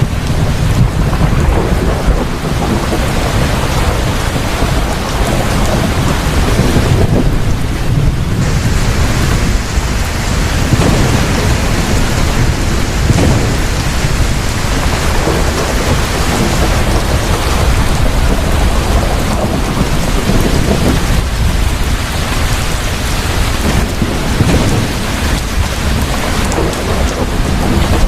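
Thunderstorm: heavy, steady rain with deep rolling thunder rumbling underneath.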